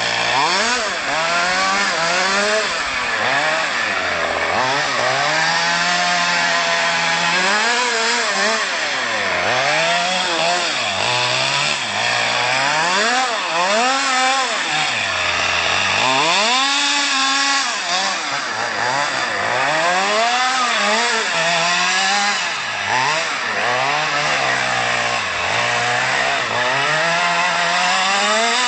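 Two-stroke petrol engine of an FG Stadium Truck RC car with a Jetpro exhaust, revving up and down over and over as it is driven.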